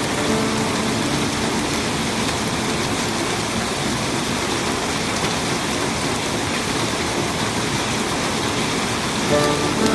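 Heavy rain falling steadily: a dense, even hiss. A few faint steady tones come in near the end.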